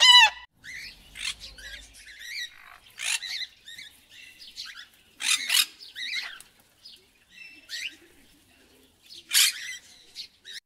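A black swan gives one honking call at the very start. Then budgerigars chatter: quick warbles, chirps and sharper squawks, loudest about 5 and 9 seconds in.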